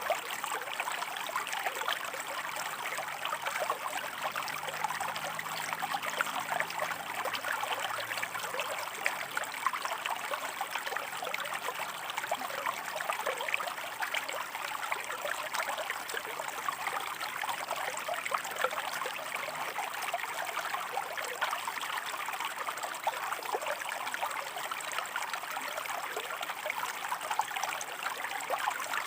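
Shallow river water running over rocks: a steady babbling rush full of small splashes and trickles.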